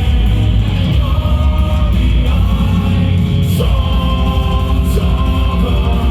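Heavy metal band playing live, loud, with distorted guitars and bass under a singer holding long notes.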